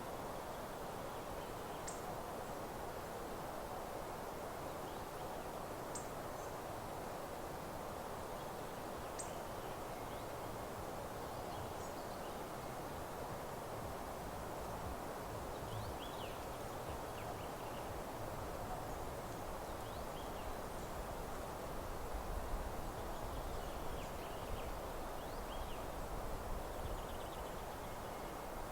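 Meadow ambience: a steady hiss with faint, scattered high bird chirps, more frequent in the second half. A low rumble rises under it for a few seconds near the end.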